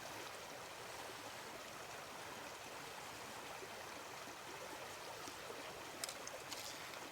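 Mountain creek flowing, a steady, even rushing of water. A couple of faint clicks about six seconds in.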